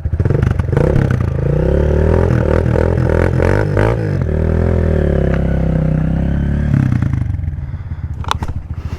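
Four-stroke dirt bike engine revving and pulling under load, its pitch rising and falling. About seven seconds in it drops back to a lower, steadier running note, with a few sharp clicks near the end.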